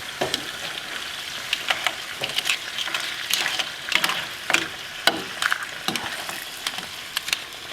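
Seafood and garlic frying in olive oil in a pan: a steady sizzle with irregular sharp pops and crackles.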